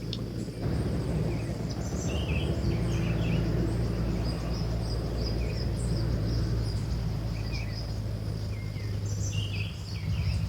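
Outdoor ambience: scattered bird chirps over a steady high insect drone, with a loud, steady low rumble underneath.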